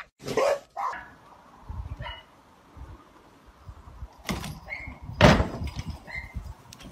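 A dog barking, two loud sharp barks about a second apart past the middle, with a few short high yips.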